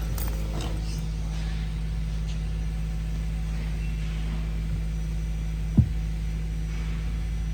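2016 Lincoln MKZ's 2.0-litre four-cylinder engine idling steadily, with one short sharp knock near the end.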